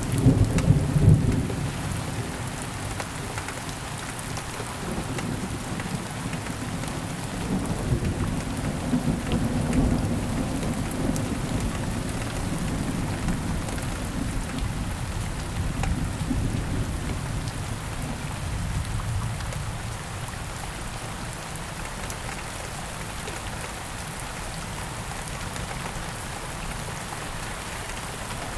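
Steady heavy rain with rolling thunder: a loud low rumble near the start that dies away within a couple of seconds, then softer rumbles swelling again about a third of the way in, under an even hiss of rain.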